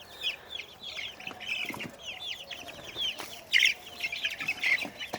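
A flock of young chickens, Naked Necks (Turkens) among them, peeping continuously in short, high, falling chirps, several a second, with one louder chirp about three and a half seconds in.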